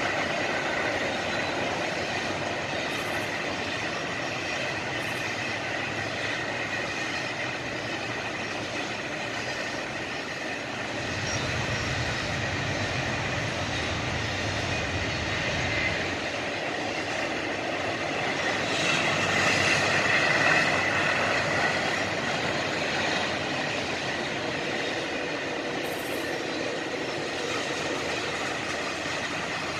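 Freight train rolling past: a continuous rumble of wheels on rail with steady high-pitched squeal tones. A deeper rumble comes through between about 11 and 16 seconds in, and the sound swells a little past the midpoint.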